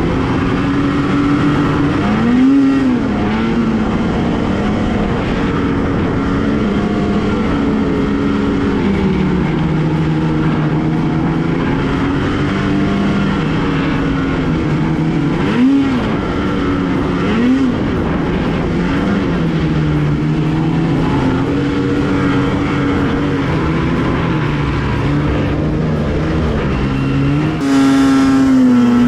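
Two-stroke snowmobile engine running under changing throttle, its pitch wandering up and down with a few quick blips of revs. Near the end it gets louder and holds a higher, steady pitch.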